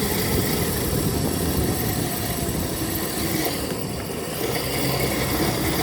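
Dirt bike engine running at a steady low speed as the bike is ridden slowly on a tyre punctured by a nail and gone flat.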